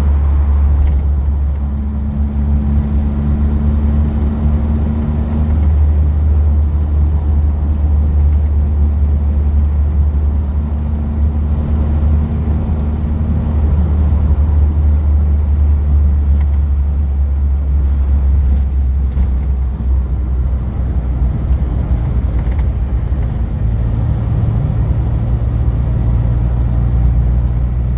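A car driving along steadily: a continuous low engine and road drone, with the engine note shifting pitch a few times.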